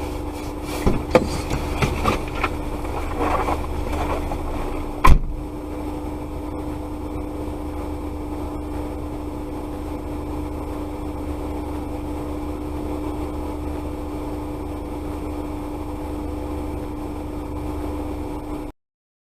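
Car running, heard from inside the cabin: a steady drone with a constant hum, a few small clicks, and one loud sharp bang about five seconds in. The drone then carries on evenly until it cuts off abruptly near the end.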